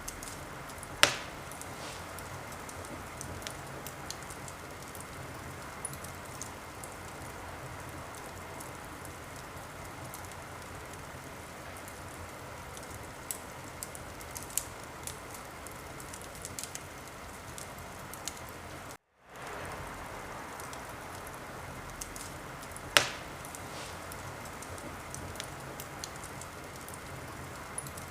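Wood fire crackling steadily, with many small ticks and two sharp loud pops, one about a second in and one late on. The sound cuts out completely for a moment about two-thirds of the way through.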